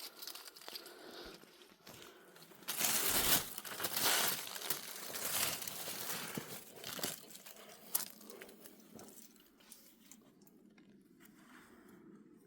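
Irregular crunching and rustling, loudest in the middle and fading to a low hiss near the end.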